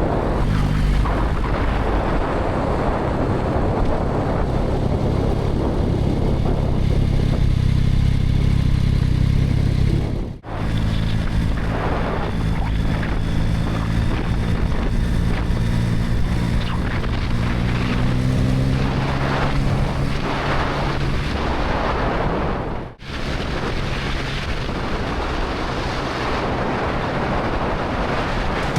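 Motorcycle engine running under way, with wind rushing over the microphone; partway through, the engine note climbs as the bike accelerates. The sound breaks off briefly twice.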